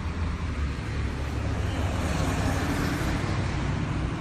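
A steady low rumble with a hiss above it, like a car running close by.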